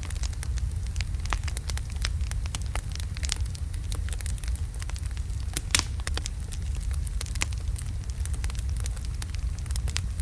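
Wood logs burning in a fireplace: a steady low rumble of flames with frequent irregular crackles and pops, one sharper pop a little over halfway through.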